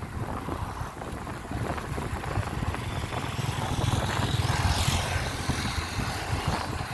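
Motorcycle engine running steadily under way, with road and wind noise; it grows louder about four to five seconds in.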